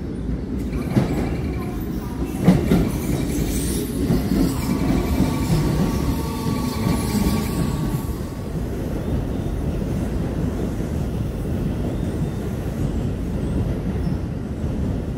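A Keio Line 8000-series electric commuter train pulls into the platform. Its wheels knock over rail joints and the rolling stock rumbles, then a thin squeal of brakes and wheels is heard as it slows. After that there is a steady low hum as it stands at the platform.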